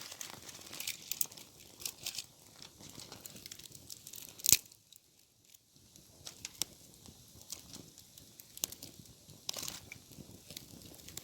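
Dry leaves and thin twigs crackling and snapping in many small irregular clicks, with one sharp, much louder crack about four and a half seconds in.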